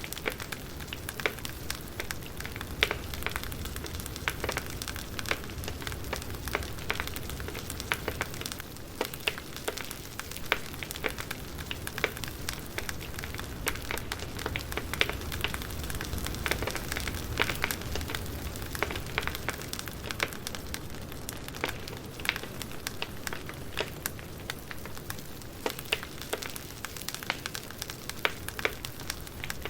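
Wood fire crackling, with frequent irregular sharp pops and snaps over a steady low rumble and hiss of burning logs.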